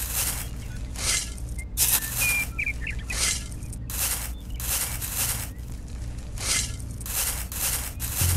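Small metal toy shovel scooping and scraping sand, about a dozen short gritty scrapes at roughly one a second or a little faster, over a faint steady low hum.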